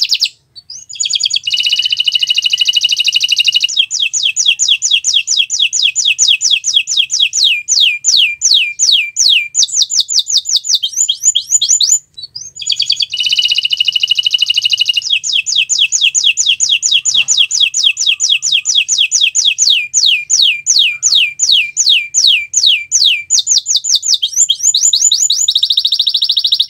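Domestic canary singing in long trilled phrases of rapid, repeated downward-sweeping notes, each phrase opening with a dense rolling trill. There are short breaks about half a second in and again about twelve seconds in.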